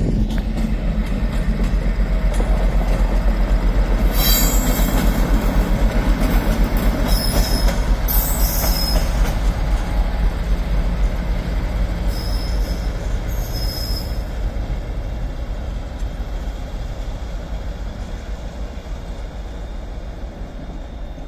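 Class 390 Pendolino electric train pulling out, a steady rumble of wheels on rail with several short high-pitched wheel squeals between about 4 and 14 seconds in. The sound fades as the train draws away.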